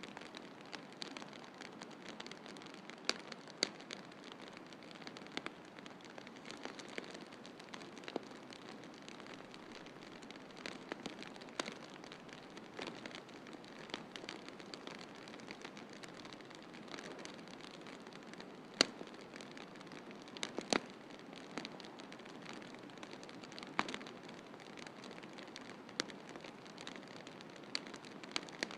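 Fireplace wood fire crackling: scattered sharp pops over a steady hiss, the loudest pop a little past the middle.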